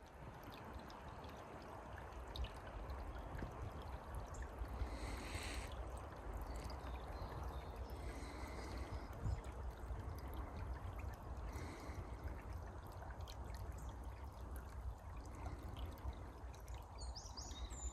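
A small forest stream running and trickling steadily. It fades in over the first couple of seconds, and a few high bird chirps come near the end.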